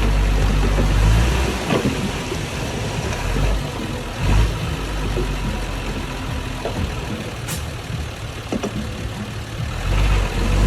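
Diesel engine of heavy earthmoving machinery running. It is loud and deep for the first second or so and again near the end, lower in between, with a few sharp knocks and clanks.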